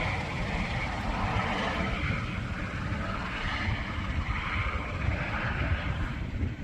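Wind buffeting the microphone in a steady low rumble, with a faint rushing hiss above it that swells and fades.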